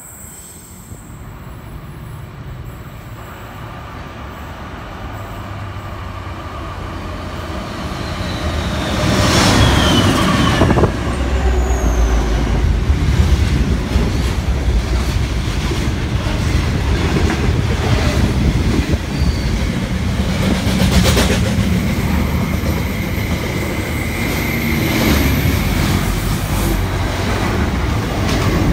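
Container freight train approaching and running through, growing steadily louder until the head end passes about nine seconds in. Then a long rumble and clatter of loaded container wagons rolling past, with brief high wheel squeals.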